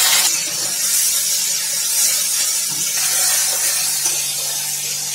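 Chopped tomatoes sizzling in hot oil in a metal kadai. The sizzle is loudest at first and eases to a softer, steady hiss a moment in.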